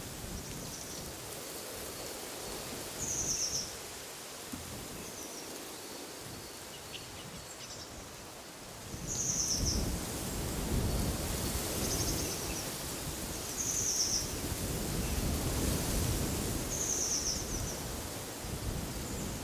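Wind rustling through trees, with a small bird repeating short, high chirps every second or two. The wind grows louder about nine seconds in.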